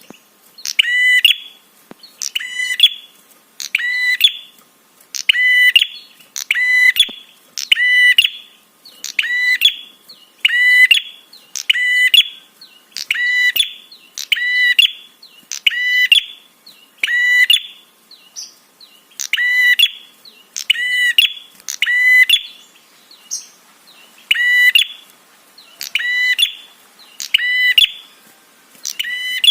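Prenjak (prinia) call, loud and sharp, a quick double note repeated about once a second in an even rhythm, with a couple of short gaps in the second half.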